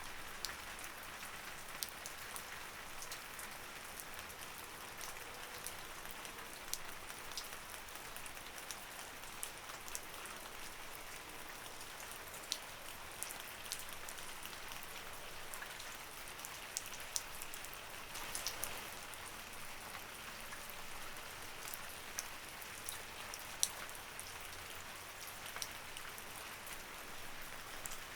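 Light rain falling steadily, a soft hiss with many separate drops ticking at random.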